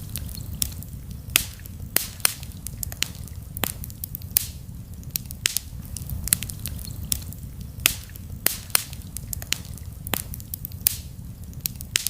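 Wood campfire crackling, with irregular sharp snaps and pops several times a second over a steady low rumble.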